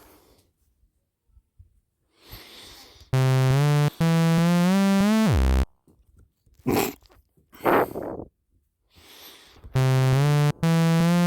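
BandLab's talkbox-style synth playing two short phrases of a few notes stepping upward in pitch, the second near the end. Between them come two short breathy bursts of noise.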